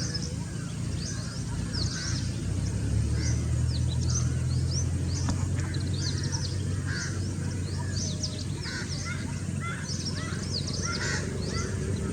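Many birds calling: a dense run of short, high chirps with lower calls mixed in, over a steady low hum.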